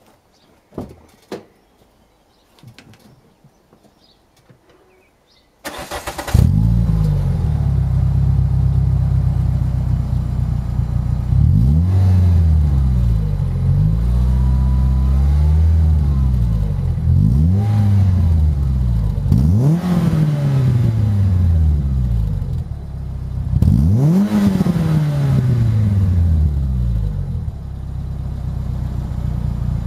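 Renault Clio II RS four-cylinder engine through a K-Tech stainless steel exhaust, started about six seconds in after a few faint clicks, then idling and revved in a series of blips, the longest rev near the end.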